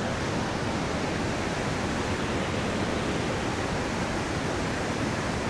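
Steady rush of a fast river's rapids, an even wash of water noise without a break.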